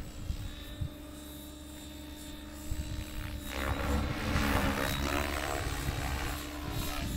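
Align T-Rex 700E electric RC helicopter in flight: a steady whine of motor and rotor blades that grows louder about three and a half seconds in.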